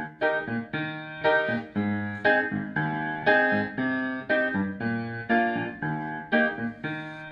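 Piano playing a steady run of chords, about two a second: the instrumental intro of a song.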